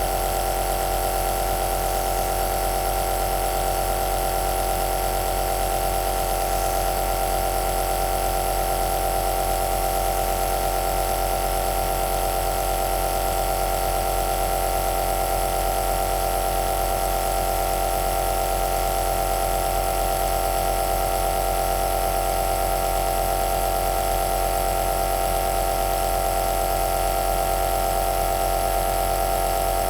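Compressor nebulizer (Italian "aerosol" machine) running continuously: a steady motor-and-pump hum with a strong mid-pitched drone and an airy hiss over it, unchanging throughout.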